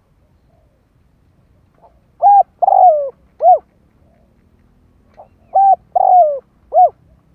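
A spotted dove decoy bird cooing twice, the same phrase each time: a faint short note, then three hooting coos, the middle one longer and falling in pitch.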